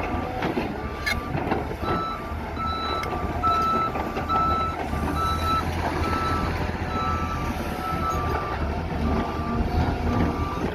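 Heavy earthmoving machine's backup alarm beeping steadily, about two beeps a second, over the low rumble of its diesel engine as it moves on the job site.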